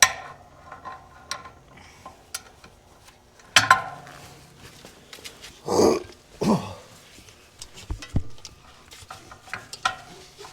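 Hand tools and metal parts clinking and clanking now and then during work on a tractor's rear end, with two short low grunt-like sounds about six seconds in.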